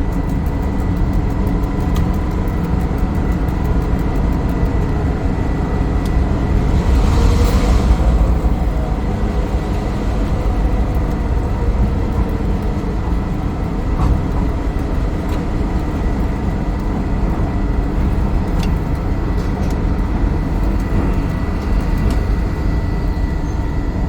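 Diesel-electric locomotive engine of a V/Line P class running steadily, with a steady whine over the low engine rumble; a brief hiss swells up about seven seconds in.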